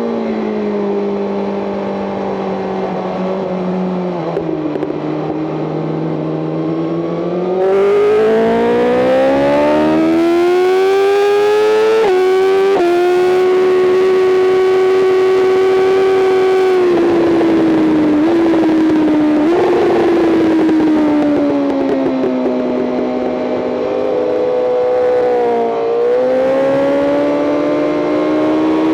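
BMW M 1000 RR's inline-four engine under hard track riding: revs falling off the throttle, then full throttle about eight seconds in with the pitch climbing and a quick gear change near halfway, a steady high-rev pull, then slowing with two short throttle blips on downshifts, and the revs climbing again near the end.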